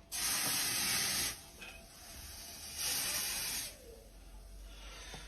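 Hot steel axe head being quenched, hissing sharply in two bursts of about a second each as the red-hot edge is dipped into water to harden it.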